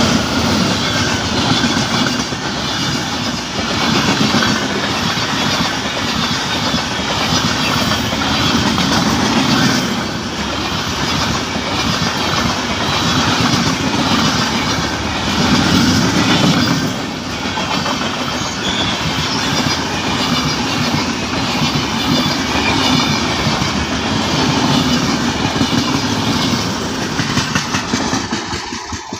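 Train running on rails, its wheels clattering rhythmically over the rail joints.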